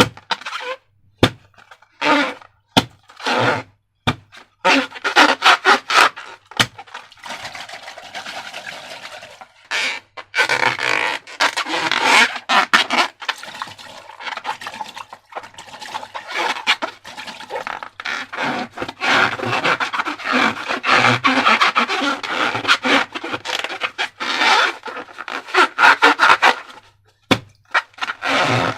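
Slime being worked by hand: a run of sticky clicks, pops and crackles. It starts sparse, with single clicks, then becomes a dense squishing crackle.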